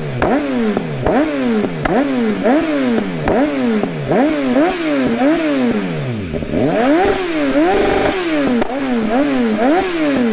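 2016 BMW S1000XR's inline-four engine through a straight-pipe exhaust, revved again and again in quick throttle blips, about two a second, with a longer hold at higher revs about seven seconds in.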